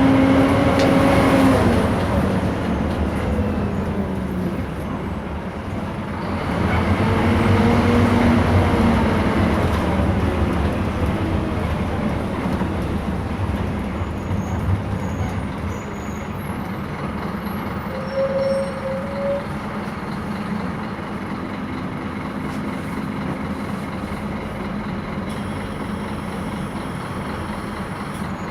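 Scania K230 city bus's diesel engine with a ZF automatic gearbox pulling away: the engine note rises and falls twice in the first ten seconds as it accelerates and changes gear, then runs steadily and a little quieter. A brief high squeal comes about 18 seconds in.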